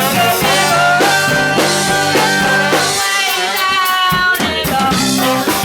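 Live funk band playing: brass holding long notes over bass guitar and drum kit, the bass dropping out for about a second in the middle.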